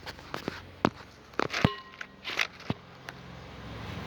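Sharp clicks and taps of small metal engine parts being handled: a Yamaha RX100's piston, pin and connecting rod. One clink about a second and a half in rings briefly.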